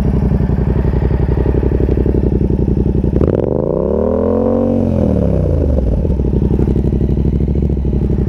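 Yamaha MT-07's parallel-twin engine idling through an SC Project Conic 2-in-1 exhaust with the baffle removed. A little over three seconds in it is revved once, the pitch climbing for about a second and a half and falling back to a steady idle by about six seconds.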